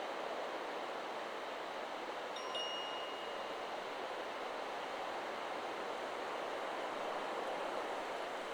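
Steady wind rustling through forest trees. About two and a half seconds in, the Chakra Chimes 'Solar Plexus' wind chime sounds once and rings briefly.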